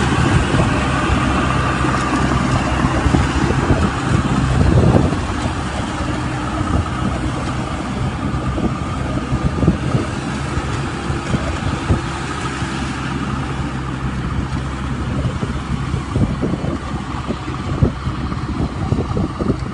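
Medium-size Thaleh Thong rice combine harvester running with a steady engine drone, briefly louder about five seconds in, with scattered low thuds from the machine.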